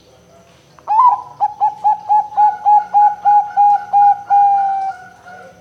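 Bangkok-line zebra dove (perkutut) cooing: one sliding opening note, then a quick run of about a dozen short, even coos at roughly four a second, ending in a longer held note that sinks slightly. A faint steady hum runs underneath.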